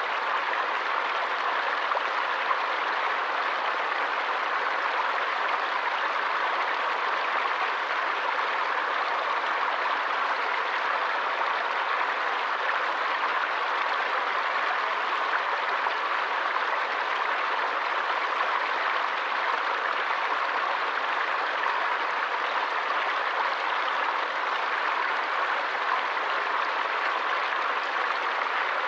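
Stream water flowing steadily: an even rushing noise with no breaks or changes.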